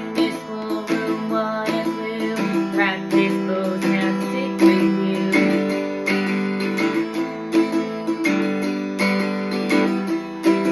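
Acoustic guitar strumming open chords in a steady rhythm.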